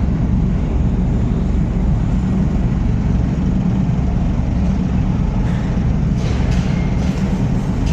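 Steady low machine drone of a mobile stage truck's hydraulic system running as it lifts the stage roof, with a few faint clicks near the end.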